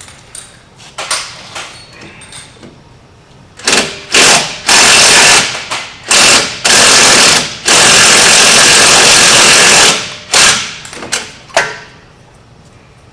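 Impact wrench hammering on a bolt in a string of loud bursts, the longest lasting about two seconds, with lighter clanks of tool handling before them.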